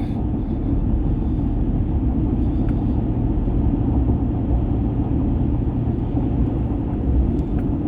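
A vehicle driving along at a steady speed: a low, even rumble of engine and road noise.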